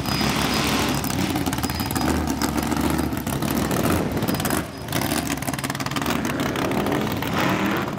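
Drag-race car engines, V8 hot rods among them, running loud and rough at idle with blips of revving as the cars roll past. The sound dips briefly a little before halfway, then carries on the same.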